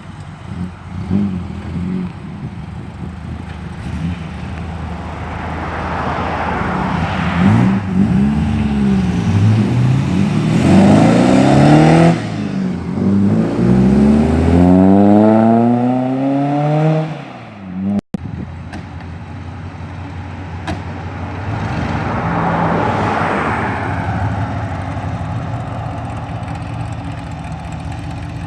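Cars' engines idling and pulling away one after another. One engine revs up with a steeply rising pitch before the sound breaks off sharply about two-thirds of the way through, and another car swells and fades as it passes near the end.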